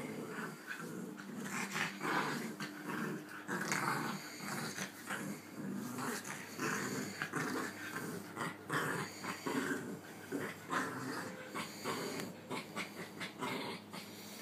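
Two dogs growling and snarling in rough play-fighting, in a constant irregular run of growls, with scuffling.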